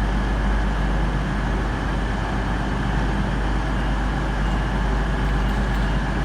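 Class 221 Super Voyager diesel-electric multiple unit departing, its underfloor diesel engines running steadily under load.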